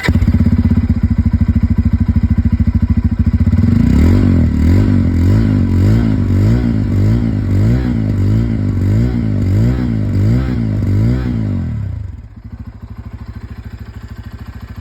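Bajaj Pulsar N250's single-cylinder engine running through its stock exhaust. It idles steadily, then gets quick, repeated throttle blips, about one every three-quarters of a second, before settling back to a quieter idle about twelve seconds in.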